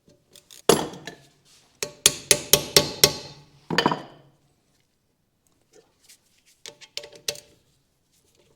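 Hand tools knocking and clinking on the rusty steel trailing-arm hardware as its seized bolts are worked loose: sharp metallic knocks with a short ring, a quick run of about six a couple of seconds in, then a few fainter clicks near the end.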